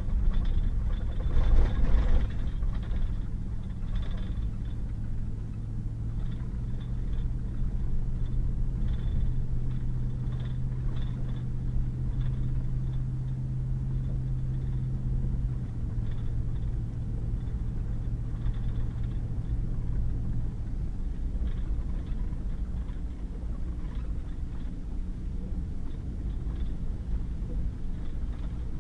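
Pickup truck driving on a wet gravel and mud road: a steady low rumble of engine and tyres, with a few knocks and bumps, the loudest about two seconds in. The engine's steady hum changes pitch about fifteen seconds in and fades out around twenty seconds in.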